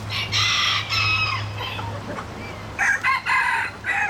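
Rooster crowing, two crows in a row, the second starting near three seconds in. A steady low hum runs underneath.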